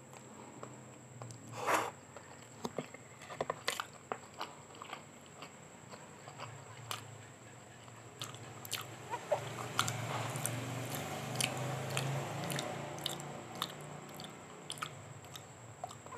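A person slurping in and chewing a mouthful of soft instant fried noodles, with small wet clicks scattered throughout and the chewing growing louder for a few seconds past the middle.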